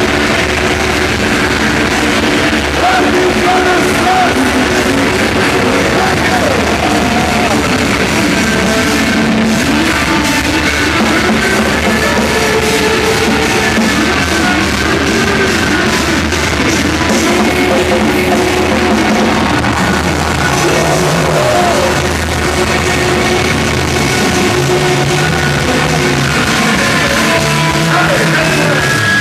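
Live rock band playing loudly and without a break, drums and guitars together.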